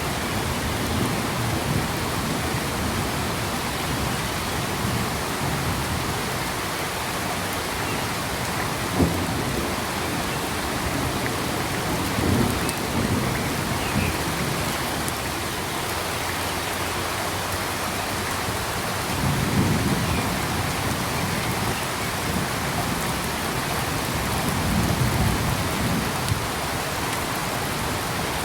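Steady rain hissing, with low rumbles that swell up several times and one sharp tap about nine seconds in.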